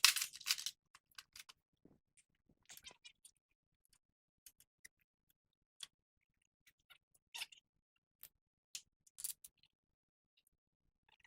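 Sporadic light metal clicks and scrapes of a screwdriver working at a tie rod end's cotter pin: a quick cluster of clicks at the start, then single ticks every second or so.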